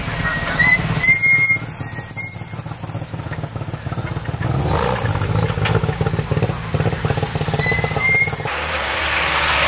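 Car engine running at low revs, its note changing about eight and a half seconds in, with a few short high squeals over it early on and again near the end.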